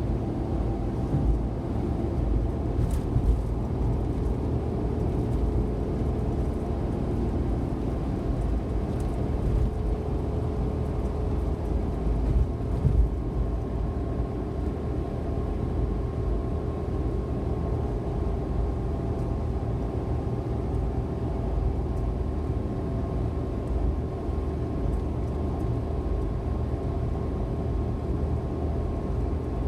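Suzuki Every kei van, with its 660 cc three-cylinder engine, cruising at expressway speed: a steady low road and engine rumble with a constant hum, and a few brief thumps, the loudest about 13 seconds in.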